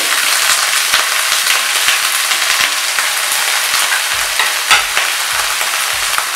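Freshly added eggplant (brinjal) pieces sizzling and crackling in hot oil in an iron kadai; the pieces were soaked in water and drained, so the frying spits strongly. A few knocks sound about four seconds in.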